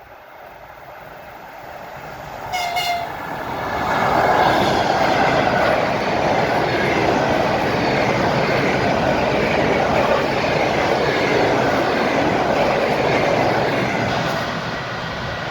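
Train approaching and passing close by at speed, with one short horn blast about two and a half seconds in. The rush of the passing train is loud for about ten seconds, then eases off slightly near the end.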